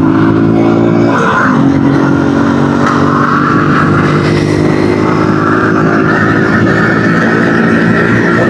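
Honda dirt bike's single-cylinder engine running steadily while riding, at a near-constant engine speed.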